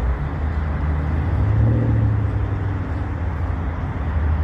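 Car being driven slowly: a steady low engine and road rumble, with a brief pitched engine hum about two seconds in.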